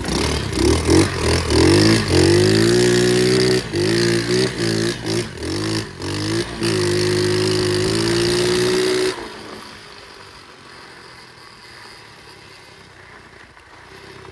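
Flywing pit bike's small single-cylinder four-stroke engine revving in a quick series of throttle blips, then held at high revs for a few seconds before cutting out suddenly about nine seconds in.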